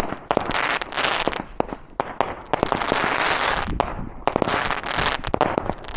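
Fireworks going off: rapid sharp cracks and pops over a dense crackle, thinning briefly about four seconds in before picking up again.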